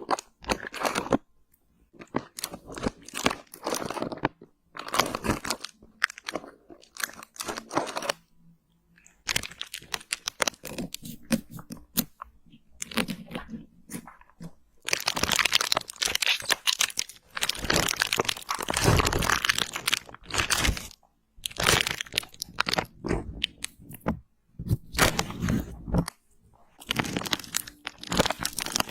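Close-miked crisp crunching and crackling in bursts, separated by short silences, with a longer dense stretch about halfway through.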